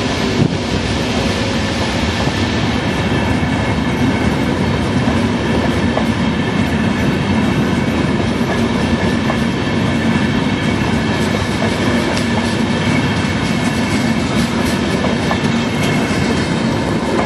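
VR double-deck intercity passenger coaches rolling past at low speed. A steady rumble of wheels on rails, with occasional clicks and a thin steady whine above it.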